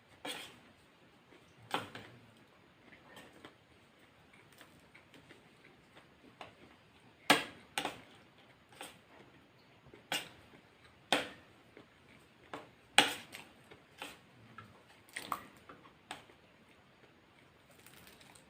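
Close-up eating sounds from a person eating a KFC fried chicken and rice meal: irregular crunchy bites and wet chewing clicks, a few of them much louder than the rest.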